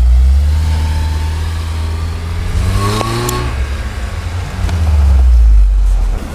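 Engines of a UAZ 4x4 and a snow-stuck Ford crossover running hard under load as the UAZ tows the Ford out of deep snow on a strap, with a rising rev about halfway through.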